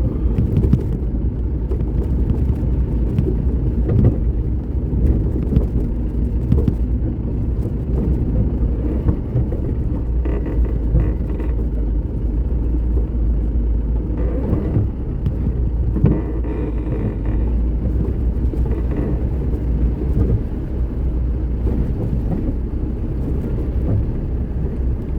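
A vehicle driving along a rain-damaged road: a steady low rumble of engine and road noise, with a few short knocks.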